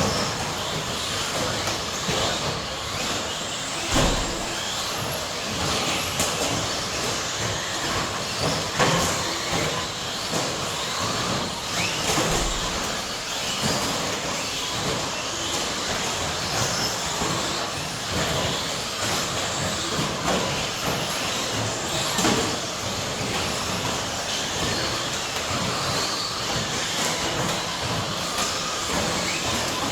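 A pack of 1/10-scale electric stadium trucks with 13.5-turn brushless motors racing: a steady high mechanical whine and rush of motors, gears and tyres, with a few sharp knocks scattered through it.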